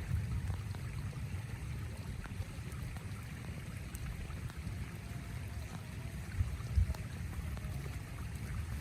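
Heavy rain on a small tent: a steady low rumble with faint scattered ticks, and two brief bumps about two-thirds of the way in.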